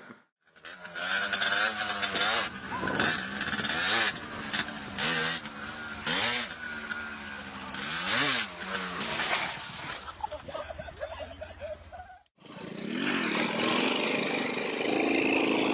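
Motorcycle engine revving, its pitch rising and falling again and again; after a sudden cut about twelve seconds in, another motorcycle engine runs more steadily.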